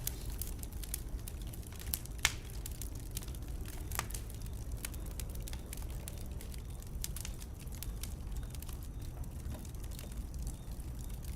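Wood fire burning in a fireplace, with irregular sharp crackles and pops over a steady low rumble of flame. The loudest pop comes about two seconds in.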